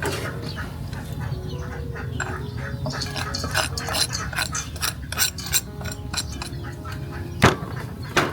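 Irregular clicks and knocks, some light and clinking, over a steady low rumble; one sharper knock near the end is the loudest.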